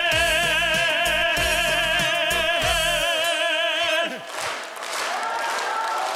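A singer holds a long final note with vibrato over band accompaniment with a steady beat. The band stops about three seconds in and the voice about a second later, and audience applause follows.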